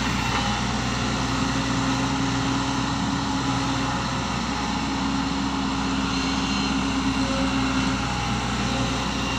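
A heavy engine running at a steady speed, a constant low drone with no revving.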